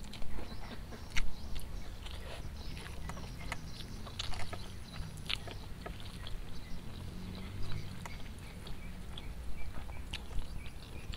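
Close-miked chewing with wet lip smacks and mouth clicks, irregular and scattered throughout, along with fingers squishing through rice in a stone mortar bowl, over a low steady rumble.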